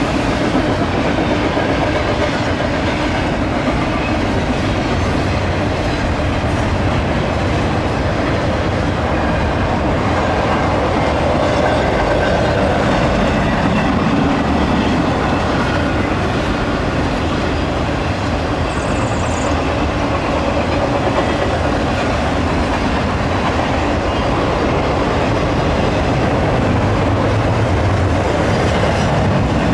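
Intermodal freight train's cars rolling steadily across a railroad bridge overhead, a continuous even rumble of steel wheels on rail.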